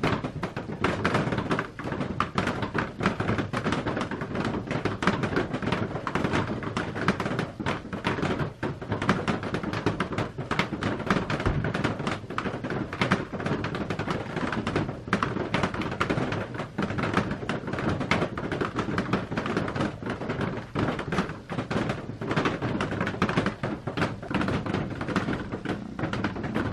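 Rain falling on a clear plastic roof: a dense, steady stream of small drop taps with no let-up.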